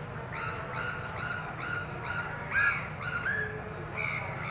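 A bird calling in a quick run of short, harsh calls, each rising then falling in pitch, about three a second for some three seconds. The loudest call comes a little past the middle, and one more call comes near the end. A steady low rumble runs underneath.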